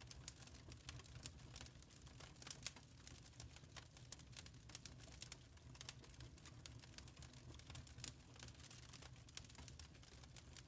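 Faint wood fire crackling in a fireplace: irregular sharp pops and snaps over a steady low rumble.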